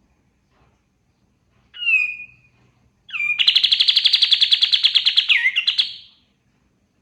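Kapas tembak songbird singing: one short slurred whistle, then about a second later a long, fast, even trill lasting about three seconds, ending in a few slurred notes.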